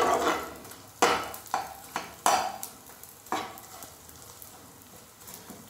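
Pieces of gond (edible gum) sizzling as they fry in a wok. A metal slotted spoon stirs and scrapes the pan in about six strokes over the first three seconds or so, after which only a quieter sizzle remains.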